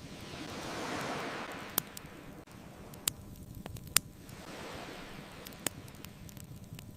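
Ocean waves washing onto a beach, two swells rising and falling, with a bonfire crackling over them: four sharp pops, the loudest about four seconds in.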